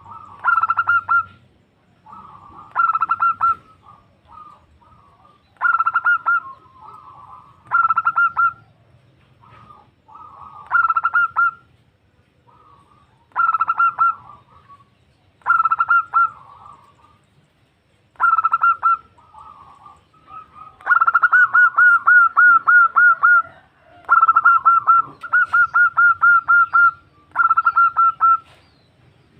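Female zebra dove (perkutut) calling to a male: short bursts of quick, rolling coo notes repeated about every two seconds, with two longer runs of notes about two-thirds of the way through.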